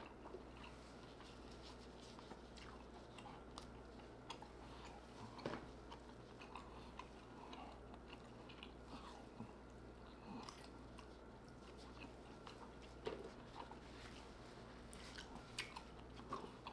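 Faint close-up chewing and mouth sounds of a person eating shellfish meat, with scattered small smacks and clicks, a couple of them louder, over a steady low hum.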